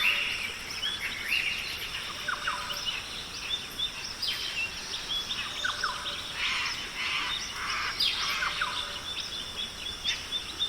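Forest ambience of many birds chirping and calling, with short rising and falling notes, over a steady high-pitched hum.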